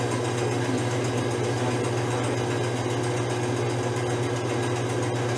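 A motor-driven machine running steadily, a low hum under an even whir that holds level without change.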